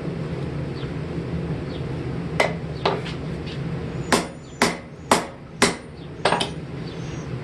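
Hand hammer striking the hot steel of a forged chipping-hammer head on an anvil to straighten it: two lighter blows a couple of seconds in, then a run of about six blows roughly half a second apart, each with a short metallic ring.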